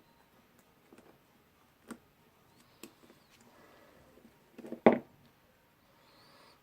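Light metal clicks from working a hook at the anvil's retaining ring in a Bosch GDR 18-Li impact driver's hammer mechanism, then a louder clatter of metal parts about five seconds in as the anvil comes free.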